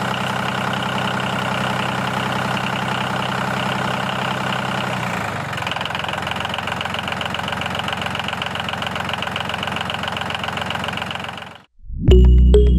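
Mini tractor engine running steadily with an even, rapid firing pulse. Its lower note changes about five seconds in, and it cuts off suddenly near the end as music starts.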